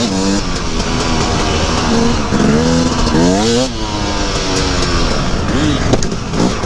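KTM 250 EXC two-stroke enduro motorcycle engine being ridden hard, its revs rising and falling repeatedly with the throttle, climbing steeply about three and a half seconds in before dropping back.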